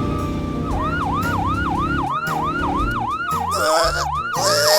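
Cartoon police car siren: a fast wail that rises and drops about three times a second, starting just under a second in after a steady held tone, over background music. Short bursts of hiss come near the end.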